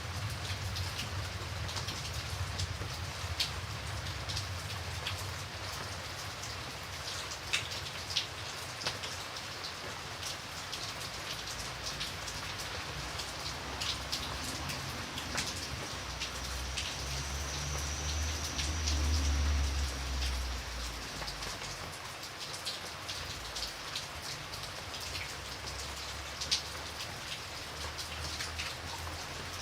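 Steady rain falling on a surface, an even hiss with scattered individual drops ticking sharply. A low rumble swells and fades just past the middle.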